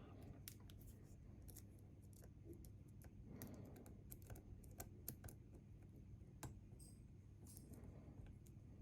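Faint, scattered small clicks and ticks of lock picks working the pins of a Bi-Lock cam lock, with a few sharper clicks in the middle.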